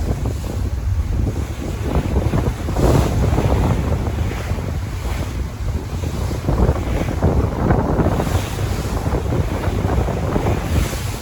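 Sea waves washing and breaking on the shore, swelling louder a couple of times, with wind buffeting the microphone in a low rumble.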